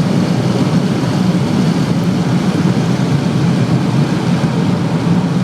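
BMW M6 E63's V10 engine running under steady load at very high speed, with wind and tyre noise, a steady, loud drone with no gear change.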